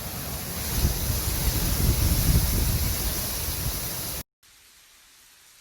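Hurricane wind gusting across a phone's microphone: a loud, rushing hiss with a heavy rumble of buffeting, strongest in the middle. It cuts off suddenly near the end, leaving a faint steady hiss.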